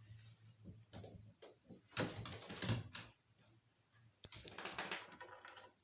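Scuffling and rustling with light clicks, in irregular bursts, as a kitten and a small griffon dog play together. The loudest bursts come about two seconds in and again just after four seconds, with one sharp click between them.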